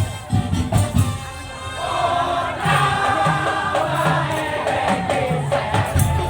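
Madurese tong-tong (daul) percussion ensemble playing, with low drum beats. About two seconds in, a sustained melody line comes in over the beat.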